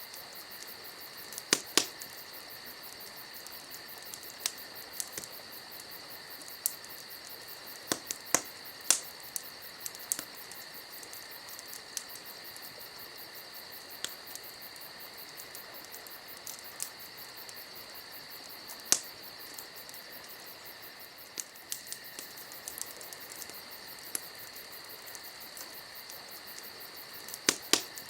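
Campfire crackling, with sharp, scattered wood pops, loudest a couple of seconds in, around a third of the way through, and near the end. Crickets chirp steadily underneath.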